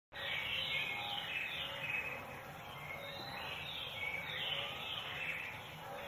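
Small birds chirping over one another: many short high chirps, some sliding down in pitch, with scattered lower notes beneath.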